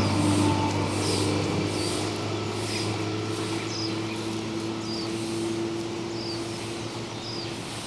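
A bird chirping over and over: a short, high, falling chirp about once a second, over a steady low hum.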